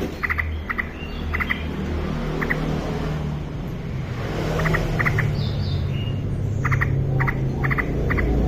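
Yellow-vented bulbul giving short, repeated chirping calls in small clusters. A steady low rumble runs beneath and grows louder in the second half.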